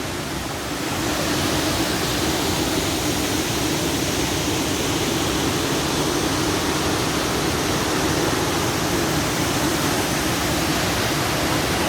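Waterfall rushing steadily: a loud, even wash of falling water that swells slightly about a second in.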